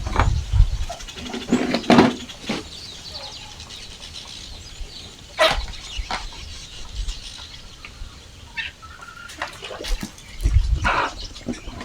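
Farmyard chickens calling amid scattered knocks and rustling, with a short peep about nine seconds in.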